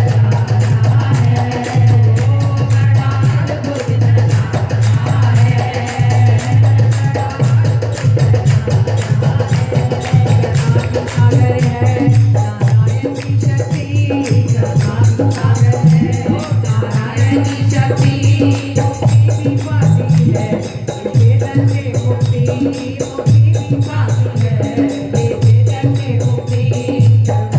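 Devotional bhajan music with a steady beat: a low hand drum and jingling, rattle-like percussion.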